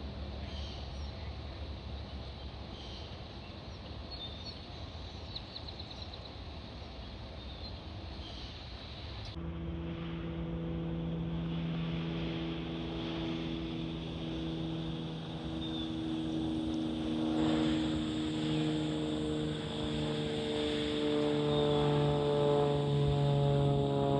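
Low rumble with faint bird chirps. After a cut about nine seconds in, an aircraft's engine drone takes over: a stack of steady tones sinking slowly in pitch and growing louder as the plane approaches and passes.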